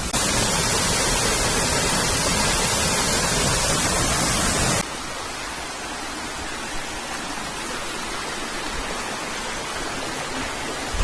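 Steady rush of falling and flowing water, loud for the first half, then cutting abruptly to a quieter, more distant rush a little before the middle.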